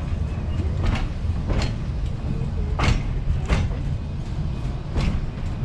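Narrow-gauge passenger train car rolling slowly over jointed track: a steady low rumble with paired clacks as the wheels cross the rail joints, a pair every second or so.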